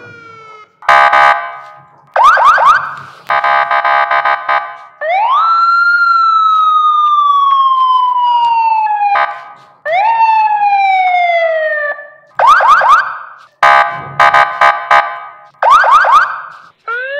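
Police patrol car's electronic siren switching between patterns: short repeated blasts of a harsh horn tone, quick rising whoop chirps, and two long wails that sweep up fast and then slowly fall.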